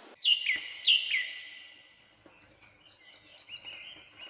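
Birds calling: two clear two-note whistled calls in the first second or so, each a higher note followed by a lower one, held briefly and fading, then fainter quick high chirping.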